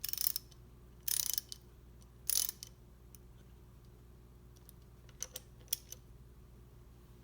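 Ratchet wrench clicking in three short runs about a second apart, then two or three single clicks a few seconds later, as the engine's connecting-rod hardware is worked.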